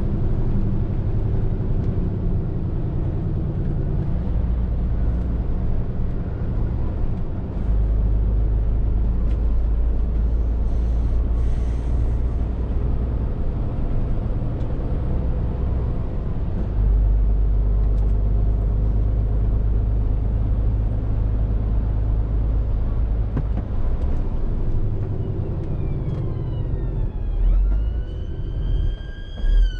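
Scania R450 lorry's 13-litre six-cylinder diesel running under way, a steady low drone heard from the cab, its deepest rumble growing louder about a quarter of the way in and again around the middle. Near the end a high wailing tone sweeps down and then back up.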